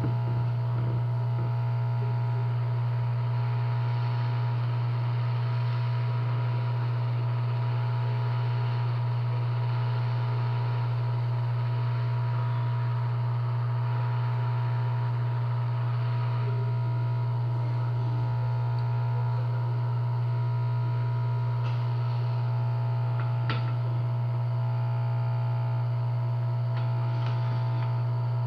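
Hot air rework station's blower running steadily: a constant low hum with a few higher steady tones and a faint hiss, with a few faint clicks near the end.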